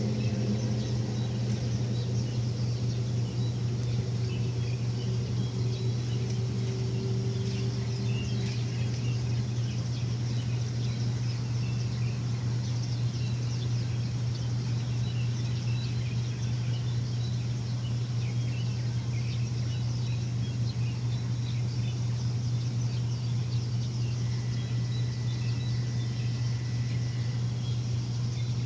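A machine running with a steady low hum, some higher whining tones in it fading out over the first several seconds. Birds chirp here and there throughout, and a thin steady whistle-like tone sounds for a few seconds near the end.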